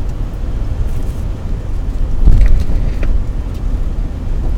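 A car driving: a steady low rumble of road and engine noise, louder for a moment about two seconds in.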